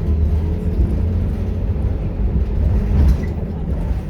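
Scania K230UB single-deck bus, its five-cylinder 9-litre diesel engine running with a steady low drone that eases off slightly near the end.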